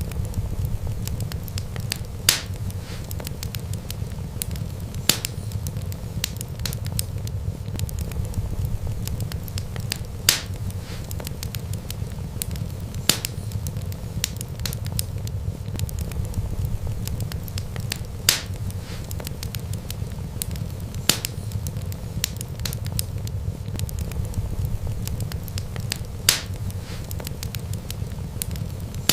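Wood fire burning with a steady low rumble and sharp crackling pops every few seconds. The loudest pops fall in a pattern that repeats about every eight seconds.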